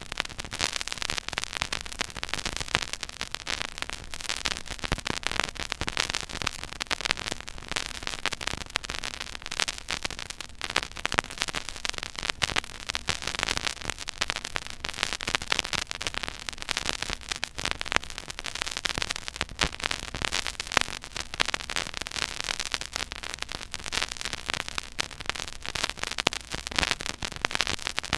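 Stylus tracking the silent, unrecorded groove of a 12-inch vinyl record at 33⅓ rpm: surface noise only, a constant dense crackle of small clicks and pops over a steady hiss.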